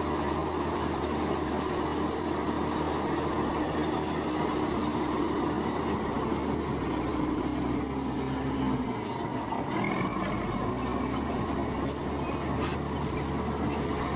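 Komatsu crawler bulldozer running steadily, with high metallic squealing typical of its steel tracks; the engine note drops briefly about nine seconds in.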